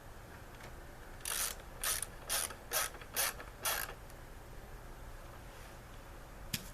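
Ratchet wrench clicking through six short strokes, about two a second, as a bolt is tightened down; a single sharp click near the end.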